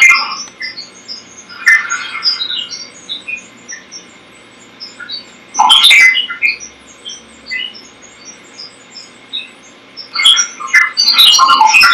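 Unexplained bubble-like blips, pops and snaps at many different pitches, heard through a TV speaker and said to come in over the satellite receiver. Scattered short high chirping blips, with denser clusters about two seconds in, about six seconds in, and again near the end.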